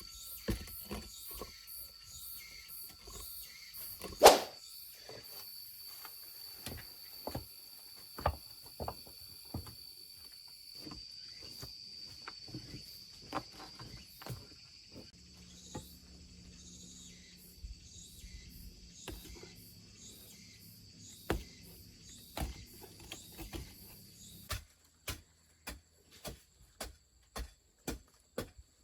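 A run of sharp knocks and clicks from hands-on work, the loudest about four seconds in, over a thin steady high tone. Near the end the knocks come at a more even pace, about one every half second or so.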